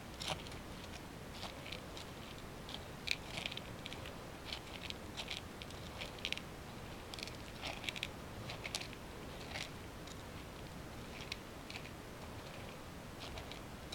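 A cat chewing its food: a run of small, irregular crunches and clicks, several a second.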